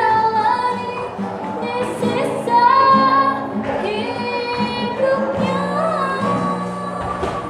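High-school students, female voices, singing a slow melody with long held notes.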